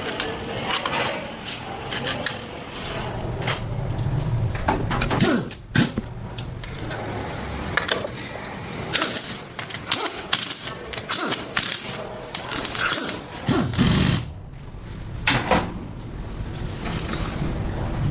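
Engine-assembly workshop noise: irregular metallic knocks, clinks and clicks of parts and tools being handled, over a steady background hum. A few heavier thuds come around a quarter of the way in and again about three quarters of the way through.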